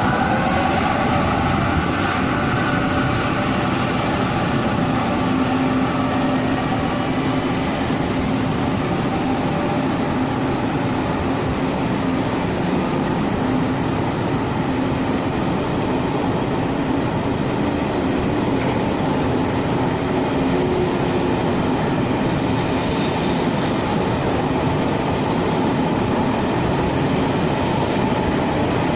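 Taiwan Railway train running on the track: an even, steady noise with faint steady tones and no clear rise or fall.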